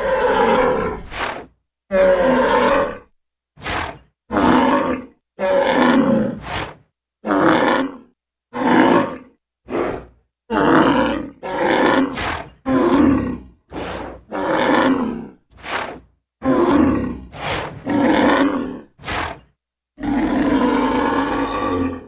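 A bull bellowing and lowing in a long series of separate calls, about twenty of them, some drawn out for a second or two and others short, with the pitch bending within each call. Each call stops dead into complete silence before the next.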